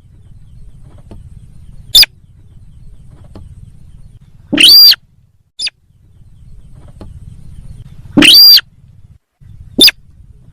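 Loud recorded lure call of the sintar sawah bird: sharp call notes every couple of seconds, two of them longer and swooping up then down, over a low steady hum.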